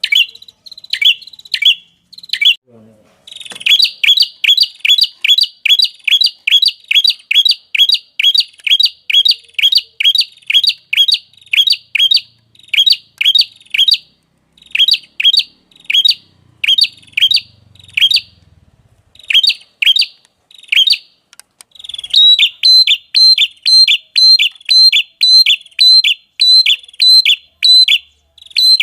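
Small songbird chirping in long, fast runs of short, sharp, downward-sweeping notes, about three a second, broken by brief pauses; in the last few seconds each chirp starts on a short higher note before sweeping down.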